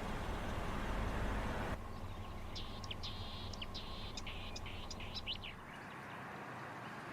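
Songbird chirping in a quick run of short high notes for about three seconds. Before it, a steady rushing noise cuts off abruptly.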